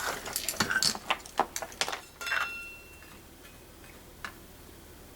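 Light clicks and clinks of small metal carburetor parts being handled and fitted back together, with one short ringing clink about two seconds in and a last click near the end.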